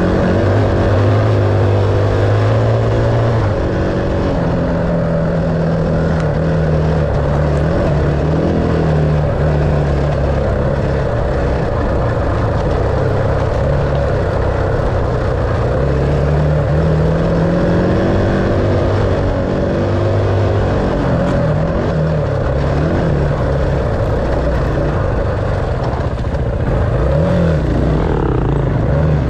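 Enduro dirt bike engine running under way, its pitch rising and falling as the throttle is opened and closed, with wind and trail noise.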